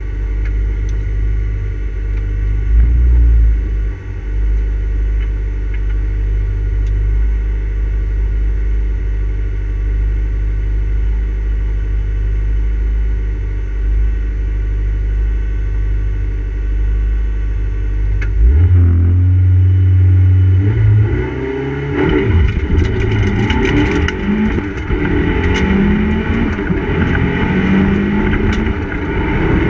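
Mitsubishi Lancer Evolution IV's turbocharged 2.0-litre four-cylinder heard from inside the cabin, idling steadily, then revved up a little past halfway. About three-quarters of the way in it launches and accelerates hard, its pitch climbing again and again as it goes through the gears.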